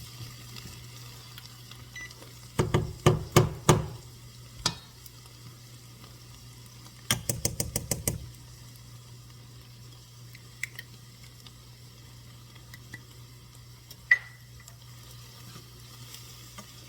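A roux being started in a pan of butter: a utensil knocks against the pan in two bursts, about five knocks around three seconds in and a quick run of taps around seven seconds in, with a single click later, over a faint sizzle and a steady low hum.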